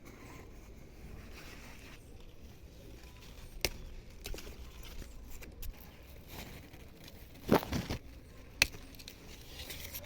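Okra being harvested: a handful of sharp, brief snips or snaps, pods being cut or broken off the plant, with the loudest, doubled one about three quarters of the way in.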